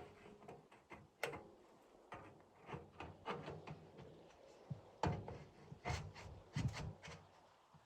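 Irregular knocks, taps and rubbing, like gear or wood being handled, with a few heavier thuds about five and six and a half seconds in.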